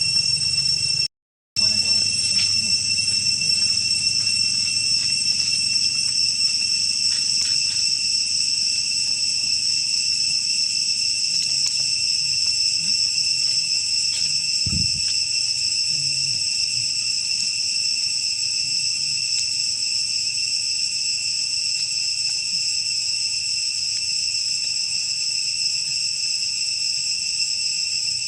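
Steady, high-pitched shrill drone of insects. It cuts out briefly about a second in, and there is a soft low thump near the middle.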